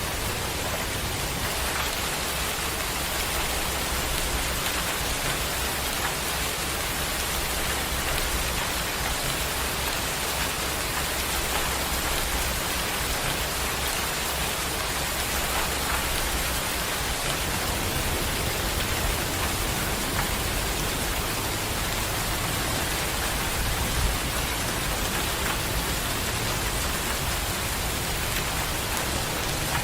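Steady rain falling on surfaces, a dense even hiss, with a low rumble underneath that grows stronger a little past halfway.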